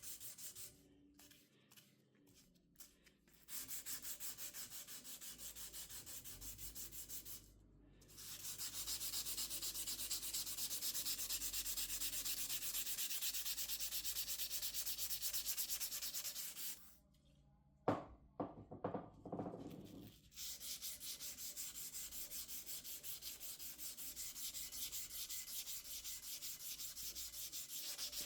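Hand sanding on the rusty metal of an old charcoal clothes iron, in quick, even back-and-forth strokes, in three long spells with short pauses between. A single sharp knock with brief ringing comes in one of the pauses, near two-thirds of the way through.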